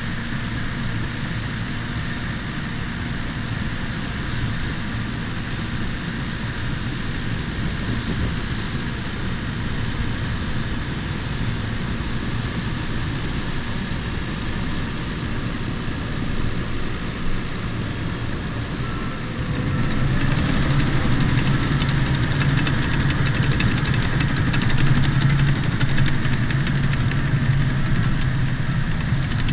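Bulldozer's diesel engine running steadily. A little past two-thirds of the way through it revs up, growing louder with its note rising slightly, and a clatter of the machine working comes in over it.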